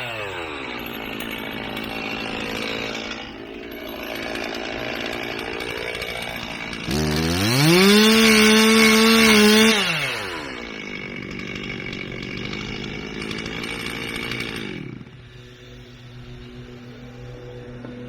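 Chainsaw engine settling from full speed to idle, then revved back up about seven seconds in and held at full speed for about three seconds before dropping back to idle. It runs lower and quieter from about fifteen seconds in.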